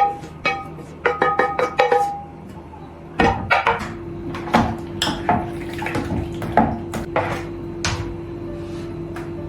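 Dishes and cutlery clinking: sharp ringing taps in the first two seconds, then from about three seconds in a busier run of knocks and clatters.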